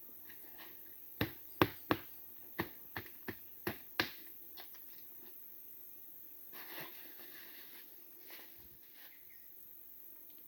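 A quick series of about eight sharp knocks or strikes over about three seconds, then a few soft rustling scrapes.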